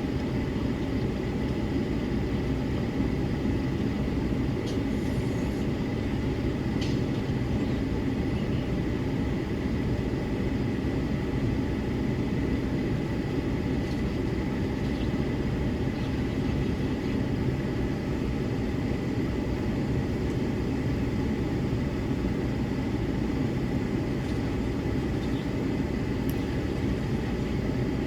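Steady low rumble of a running vehicle, even throughout, with a thin steady high whine and a few faint ticks.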